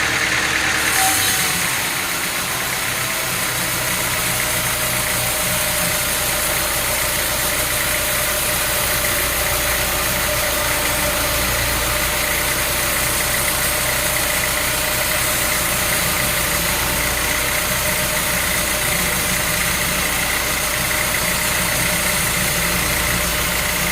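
An engine running steadily at constant speed, an even mechanical drone that changes a little about a second in and then holds unchanged.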